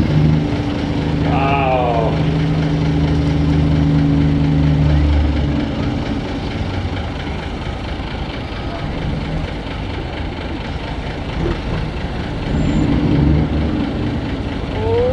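Antique truck engines running slowly under light load, a steady low engine note. It is strong for the first five seconds, eases off, then swells again near the end.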